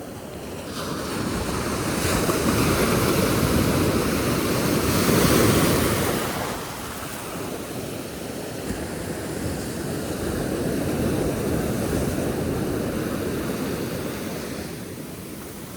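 Small ocean waves breaking and washing up the sand: a rushing swell of surf that builds to its loudest about five seconds in, eases off, then swells more gently again before fading near the end.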